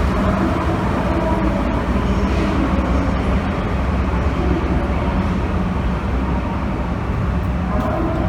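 DE10 diesel-hydraulic locomotive's engine running with a steady drone.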